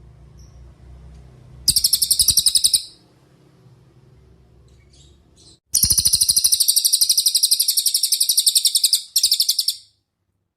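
Cililin songbird singing: a rapid, evenly pulsed high trill, first a short burst about two seconds in, then a longer burst of about four seconds from just past the middle, broken briefly near its end.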